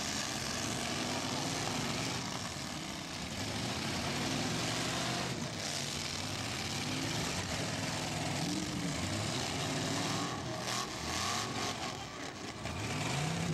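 Several demolition derby cars' engines running and revving together, their pitches rising and falling, with a few sharp knocks about ten to twelve seconds in.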